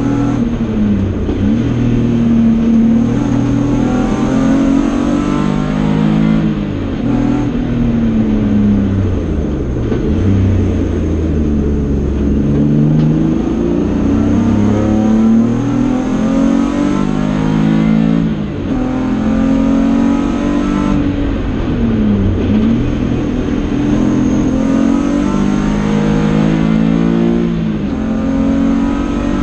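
BMW E30 race car's 2.5-litre engine heard from inside the stripped cabin, running hard on track: the pitch climbs through each gear and falls back at each shift, dropping lower a few times where it slows for corners.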